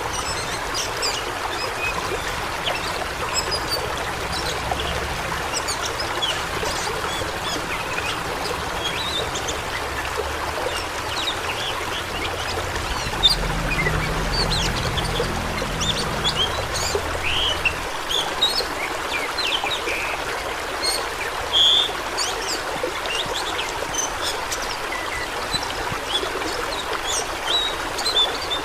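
Rushing water of a stream or small waterfall: a steady splashing hiss with many quick, high splashes and droplets over it.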